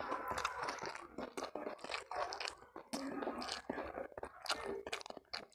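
A person chewing crunchy food close to the microphones: a dense run of irregular, crackling crunches and wet chewing.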